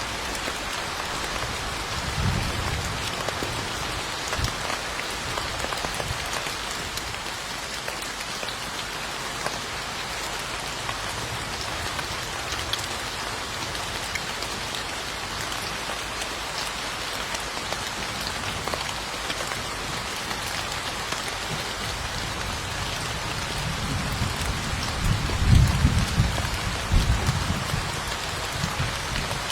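Steady rain falling, an even hiss of drops on surfaces. A low rumble rises and fades near the end, the loudest part, with a briefer one a couple of seconds in.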